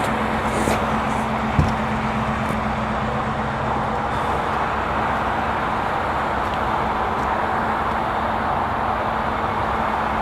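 Ford F-150's 5.0-litre V8 idling steadily, heard at the tailpipe, with one short knock about one and a half seconds in.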